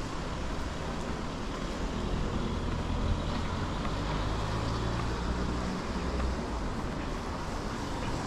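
City street traffic: a motor vehicle passing, its low rumble growing in the middle and easing off near the end, over a steady hiss.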